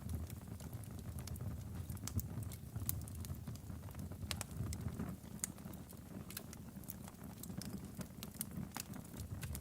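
Logs burning in a fireplace, with irregular sharp crackles and pops, several a second, over a low steady rumble of the flames.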